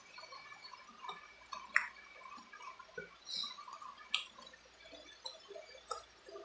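Close-up wet chewing and lip-smacking of someone eating spicy chicken feet, with irregular small clicks and smacks and a couple of sharper clicks about two and four seconds in.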